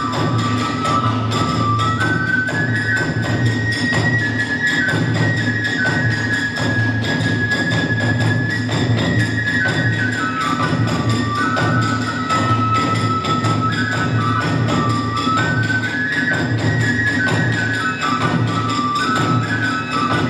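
Kagura hayashi of Hiroshima kagura: a high bamboo flute melody stepping up and down over steady drumming.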